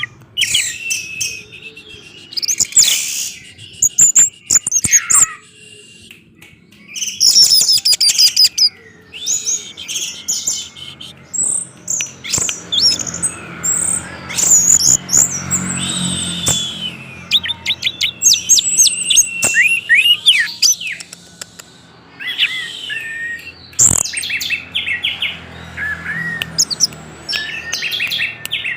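Orange-headed thrush singing a long, varied song: quick chirps, whistled slurs and trills in phrases broken by short pauses.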